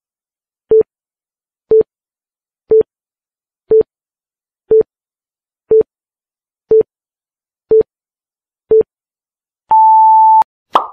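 Countdown timer sound effect: nine short low beeps, one a second, then a longer, higher beep as the timer reaches zero. A brief click with a short tone follows near the end.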